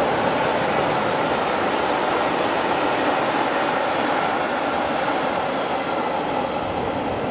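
A train passing over a level crossing: a steady rumble and rattle of wheels on the rails, easing slightly near the end.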